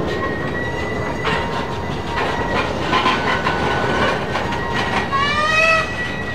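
A train's cars rolling past with a steady rumble, occasional clacks of the wheels over the rails, and a thin steady squeal from the wheels. A little after five seconds in, a squeal rises in pitch for about a second.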